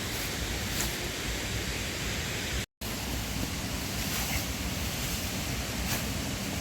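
Steady rushing of a mountain waterfall's falling water, a constant even roar that cuts out for a split second about two and a half seconds in.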